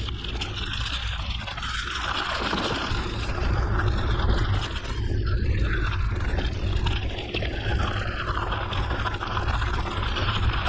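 Mountain bike riding a gravel forest road: tyres crunching and scraping over the gravel, with steady wind rumble on the microphone.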